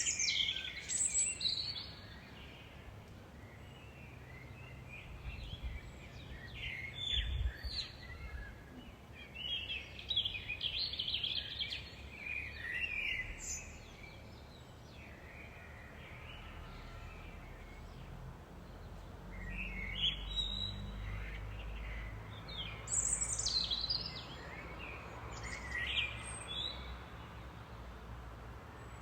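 Songbirds chirping and trilling in repeated bursts of short, high notes, over a faint steady low rumble.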